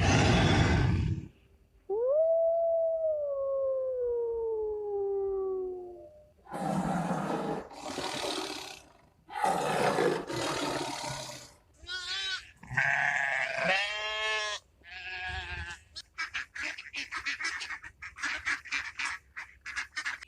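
A series of different animal calls, one after another: a short loud burst, then one long call sliding slowly down in pitch, several rough, noisy calls, a pair of wavering pitched calls, and near the end a fast run of short pulses.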